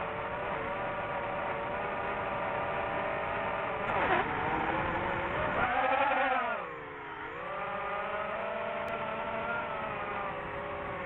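A motor running with a steady, many-toned whine. About six seconds in it swells, then its pitch dips and climbs back.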